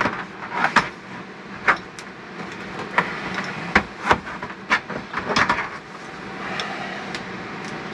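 Scattered clicks and knocks of plastic shower fittings being handled, about one a second, as the old RV shower hose is unscrewed and taken off.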